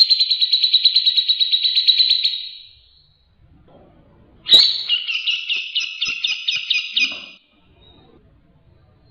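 Grey-cheeked bulbul (cucak jenggot) calling in fast rattling trills of rapid repeated notes. The first trill fades out about two and a half seconds in. After a pause comes a sharp click and a second, slightly lower trill of about two and a half seconds.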